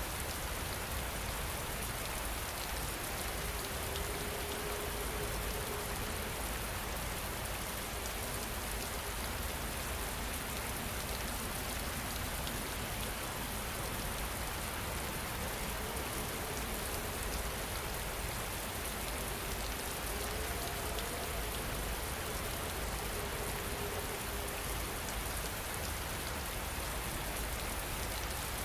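Steady rain falling, an even unbroken hiss of drops on surfaces.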